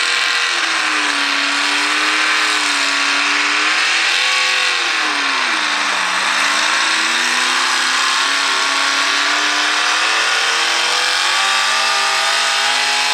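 A single-engine modified pulling tractor's engine running loud. Its pitch wavers up and down, dips about six seconds in, and climbs again near the end.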